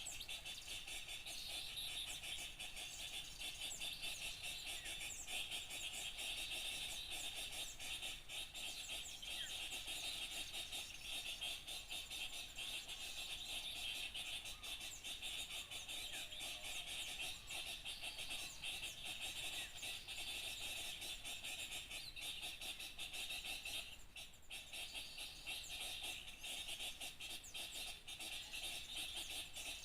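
Dense, unbroken chorus of small birds chirping and chattering over a steady high-pitched din, with a few brief sweeping calls; a bird-lure recording meant to draw small birds in.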